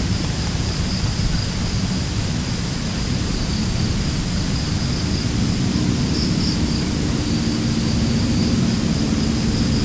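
Strong wind blowing in a steady rush with a heavy low rumble, and a thin, steady high insect trill running underneath.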